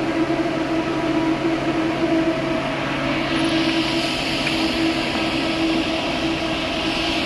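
Steady drone of workshop machinery: a constant hum with a few held tones under a noisy hiss, the hiss growing stronger about halfway through.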